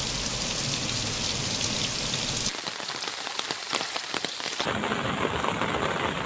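Heavy rain pouring down on a street, then rushing floodwater: a steady hiss full of fine patters that changes character abruptly twice, about two and a half and four and a half seconds in.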